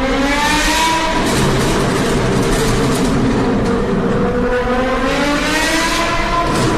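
Car engine with a loud aftermarket exhaust, accelerating hard: the engine note climbs in pitch in the first second, then climbs again for about three seconds from around halfway through.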